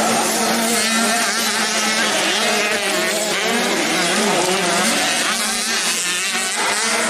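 Several 85cc dirt-bike engines racing, their pitch rising and falling as they rev through the gears, overlapping one another.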